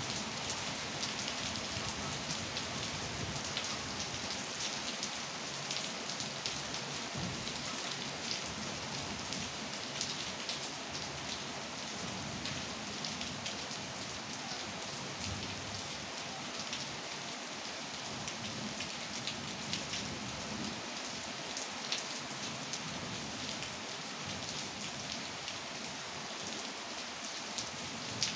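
Steady rain falling, a constant hiss with a fine patter of individual drops hitting nearby surfaces; a couple of sharper drop hits stand out, one about three-quarters through and one near the end.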